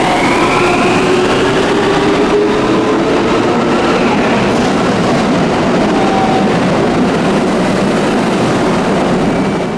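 Electric commuter train accelerating along an underground station platform. A motor whine rises in pitch over the first few seconds, over a loud, steady running noise of the cars on the rails.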